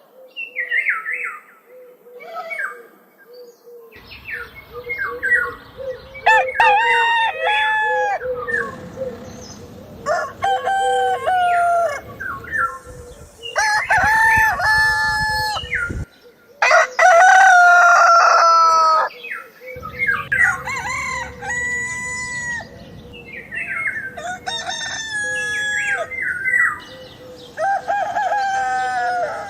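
Roosters crowing repeatedly, about a dozen long cock-a-doodle-doo calls one after another, some overlapping, with a few clucks between them.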